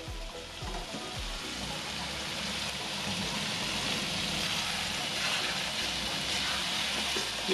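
Chili sambal with sliced petai beans sizzling in oil in an aluminium wok as it is stirred with a spatula: a steady frying hiss that grows slightly louder.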